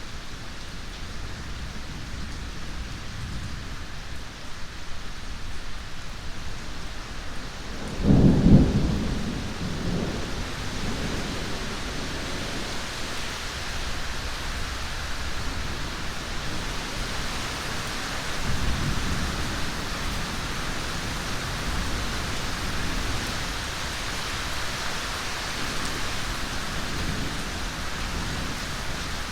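Steady heavy rain hissing, with a sharp thunderclap about eight seconds in that rolls off into a low rumble over several seconds, and a weaker roll of thunder later.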